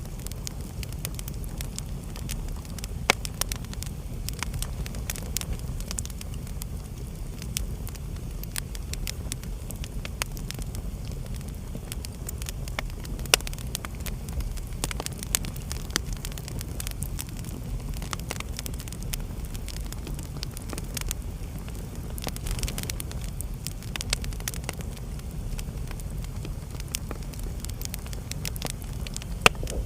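Wood fire burning in a fireplace, crackling with many sharp pops over a steady low rumble; the loudest pops come at about 3, 13 and near the end.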